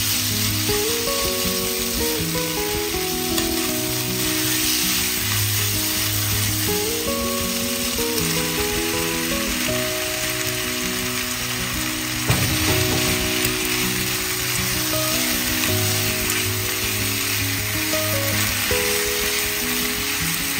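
Sliced beef sizzling as it stir-fries in a hot nonstick pan, stirred with chopsticks, with sliced onion tipped in partway and a brief sharp knock about twelve seconds in. Soft background music plays underneath.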